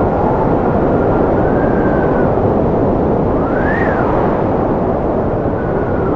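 Strong wind blowing steadily with a deep rumble, over which a thin whistle glides up and down in pitch, rising and falling most clearly about halfway through.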